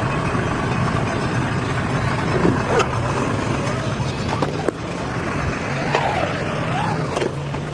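Fire engine's diesel engine running with a steady low drone, a few sharp knocks about halfway through.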